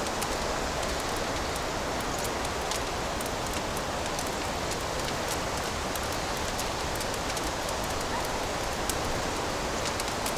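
Fireplace fire burning with a steady hiss and many small, irregular crackles.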